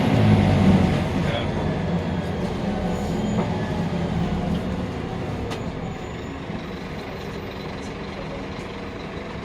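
Scania K310UB bus engine running, its low note easing off and fading over the first five seconds or so, leaving a quieter steady rumble with a few light clicks.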